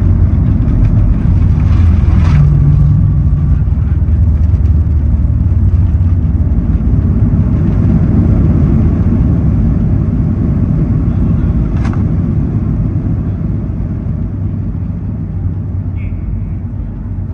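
Cabin noise of a Boeing 737 MAX 8 on its landing rollout: a loud, steady low rumble of the jet engines and wheels on the runway that slowly dies down as the aircraft slows, with a couple of sharp clicks.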